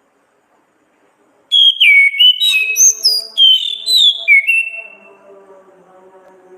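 Orange-headed thrush (anis kembang) singing one loud phrase of clear whistled notes that slur down and up, starting about a second and a half in and lasting about three seconds.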